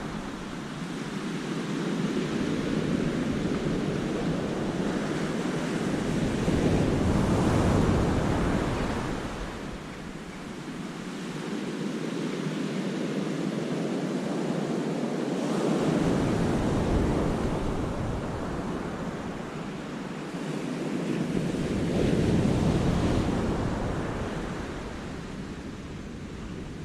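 Sea waves breaking and washing back, swelling three times and ebbing between, with wind buffeting the microphone.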